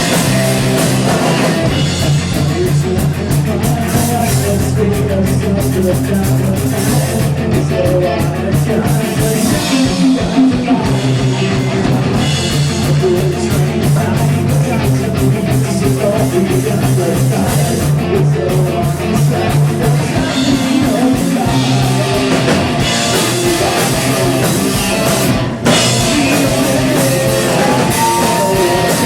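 Live rock band playing: electric guitars, bass and drum kit in a full instrumental passage, with a brief drop about 25 seconds in.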